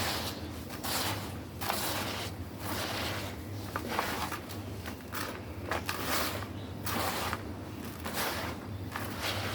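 Crumbly black stone being crushed: gritty crunches about once a second, each a rough crackling burst that breaks apart.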